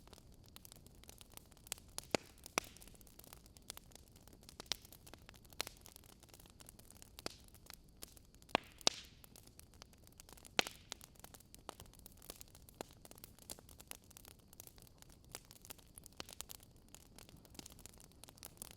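Campfire crackling: irregular sharp pops and snaps of burning wood over a faint steady hiss, with a few louder pops about two seconds in and around the middle.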